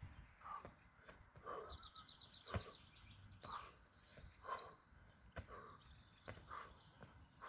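Faint bird song: a rapid descending trill of repeated high notes, then a few short high notes. A few soft thumps sound underneath.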